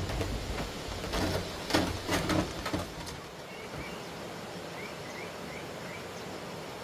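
A cluster of knocks and thumps in the first three seconds, then a series of short, high, rising chirps from a small bird over steady outdoor background noise.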